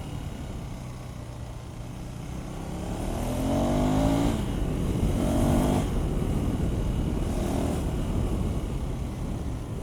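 KTM 390 Adventure's single-cylinder engine accelerating, its pitch rising about three seconds in, breaking at an upshift near four seconds, climbing again until about five and a half seconds, and rising once more, more weakly, near seven and a half seconds. A steady low rumble of wind and road noise lies underneath.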